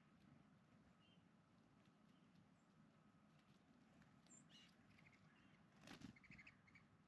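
Faint, scattered chirps of small birds, ending in a quick run of short chirps, with one brief soft thump just before that run.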